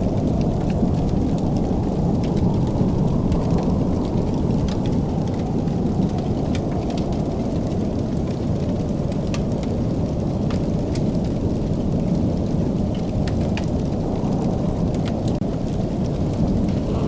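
Wood fire in a fireplace crackling: scattered sharp pops and snaps over a steady low roar.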